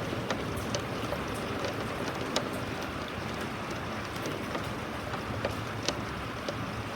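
Steady rain falling, with a constant hiss and individual drops ticking sharply and irregularly on a nearby surface.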